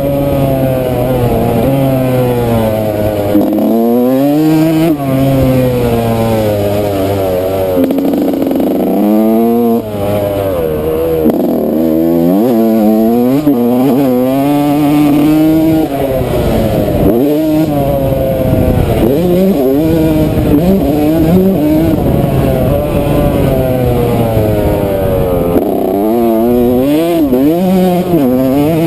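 Yamaha YZ125 two-stroke motocross bike's single-cylinder engine revving hard, its pitch climbing and dropping over and over as the throttle opens and shuts and the gears change through a lap.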